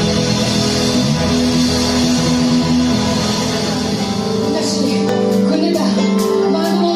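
Rock band music with electric guitar, played live; sharp cymbal strikes come in from about four and a half seconds in.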